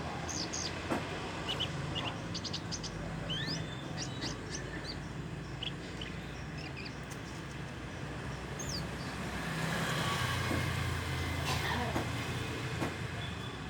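Javan bush lark giving scattered short chirps and quick rising whistle notes, mostly in the first few seconds: a young bird still learning its song, which is not yet full. A steady low rumble runs underneath and swells around ten seconds in.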